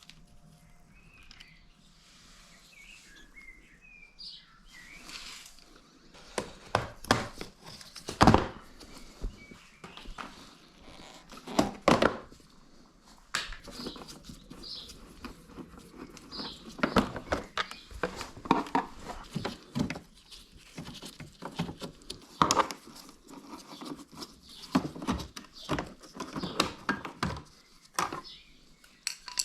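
Hand tools at work on a scooter's engine casing: irregular sharp metal knocks and clicks, a few of them loud, beginning about six seconds in after a quieter stretch with a few faint squeaks.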